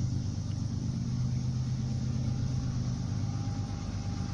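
An approaching train, heard but not yet seen, running slowly with a steady low engine drone.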